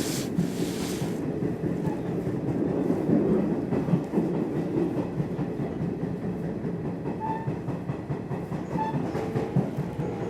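Electric commuter train running along the line, heard from inside the car: a steady rumble of wheels on the rails with some clatter, and a brief hiss in the first second.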